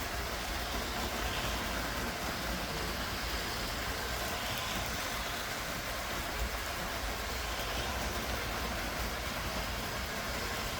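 LEGO 9V electric toy trains running on their plastic track: a steady motor whir with wheel rattle and no clear breaks.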